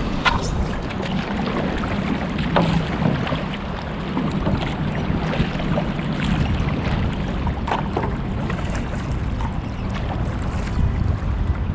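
Jet ski engine running steadily while underway, a continuous low hum under a noisy wash, with scattered short slaps.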